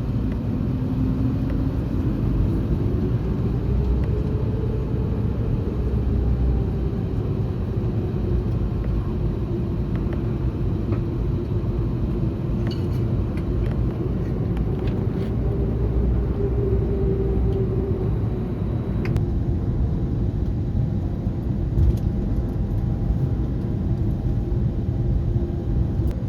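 Cabin noise inside an Airbus A321neo with its engines running: a steady rumble under an engine hum that rises in pitch over the first few seconds, then wavers up and down.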